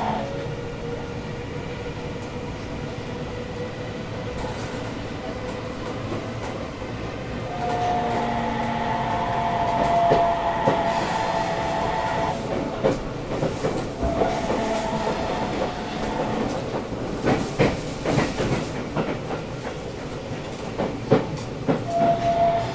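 Sendai Subway 1000N series train running, heard inside the car: a steady rumble with motor tones that come and go, and quick wheel clicks over rail joints in the latter half.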